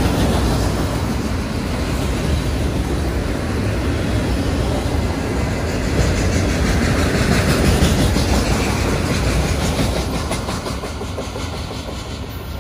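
Autorack freight cars rolling past, steel wheels rumbling over the rails, fading over the last few seconds as the tail end of the train moves away.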